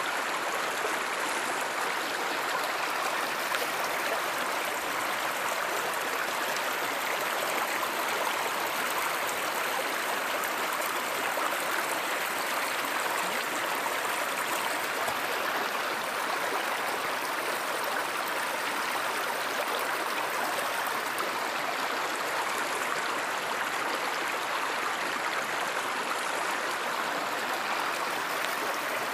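Steady rushing and burbling of flowing stream water, even and unbroken.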